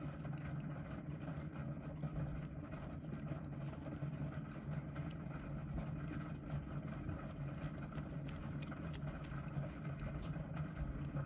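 A steady low hum with faint, scattered small clicks over it.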